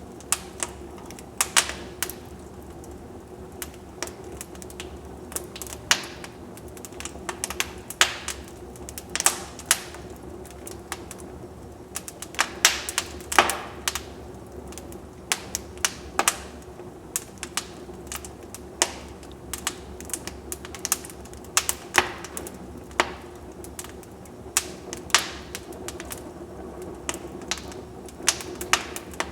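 Wood fire in a fireplace crackling, with irregular sharp snaps and pops, some bunched close together, over a steady low background.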